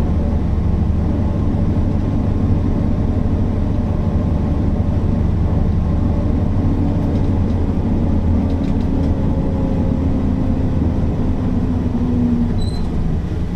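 Mercedes-Benz O408 city bus's diesel engine running while the bus is under way, a steady drone with a tone that climbs slowly in pitch and then breaks off near the end.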